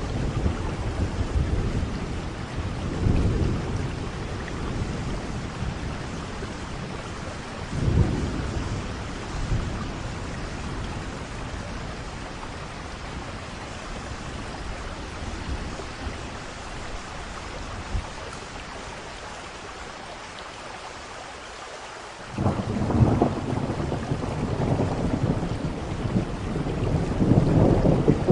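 Steady rain falling with rolling thunder. The rumble fades through the middle, with a short clap about eight seconds in, then a sudden loud thunderclap about 22 seconds in breaks into heavy rumbling that builds toward the end.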